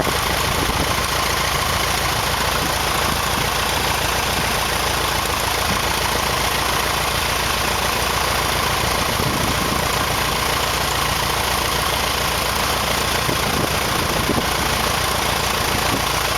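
Light aircraft engine running steadily during its first start.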